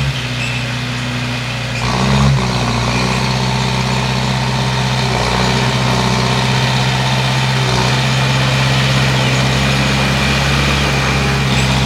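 Bulldozer's diesel engine running steadily, growing louder about two seconds in and then holding.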